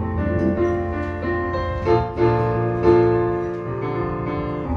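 Electric piano or keyboard playing a chordal introduction with a steady bass note underneath.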